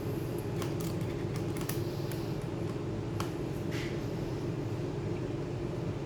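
Scattered light clicks and taps over a steady low hum, the clicks bunched in the first four seconds.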